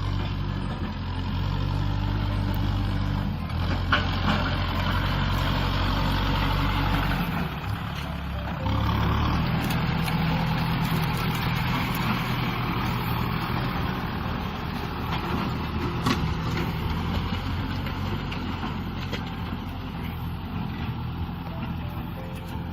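A Kubota M6040 SU tractor's diesel engine running steadily, with its note shifting and briefly dipping about a third of the way through before settling again.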